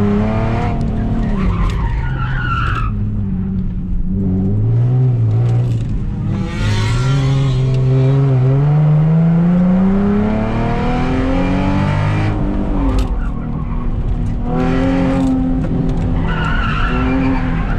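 Nissan 370Z Nismo's V6 engine, heard from inside the cabin, revving up and down through a fast lap. Its pitch drops on lifts and shifts and climbs in one long pull from about six to ten seconds in. The tyres squeal through corners about two seconds in and again near the end.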